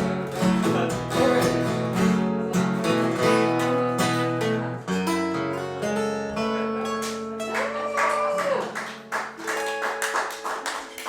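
Guitar music playing the closing chords of a song, the chords ringing out and fading near the end, with a short held vocal note partway through. Sharp claps come in as the music dies away.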